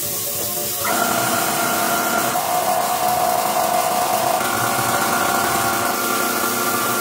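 A power tool starts about a second in and runs with a steady whine and hiss, its pitch shifting slightly a couple of times.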